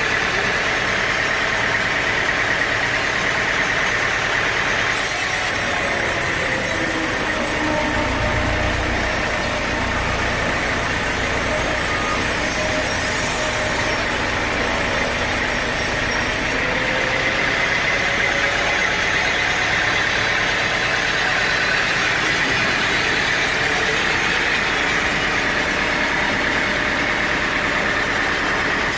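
An engine running steadily under a wash of machinery noise, with a hissing layer about five seconds in that stops about sixteen seconds in.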